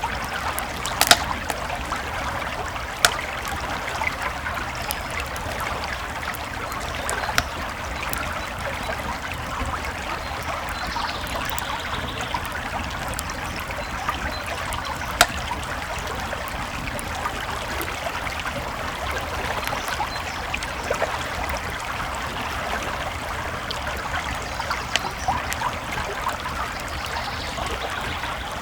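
A creek flowing with a steady trickling babble, over a campfire crackling with sharp pops, the loudest about 1, 3, 7 and 15 seconds in.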